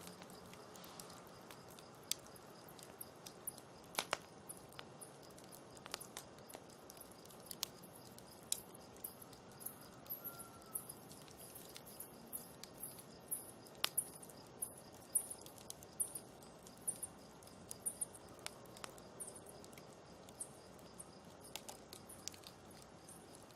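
Campfire crackling: irregular sharp pops and snaps of burning wood over a low steady hiss. Short, high-pitched insect chirps, crickets, repeat in the background.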